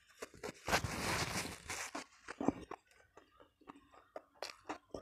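Crunching bite into crisp food, loudest in the first two seconds, then chewing with smaller scattered crunches.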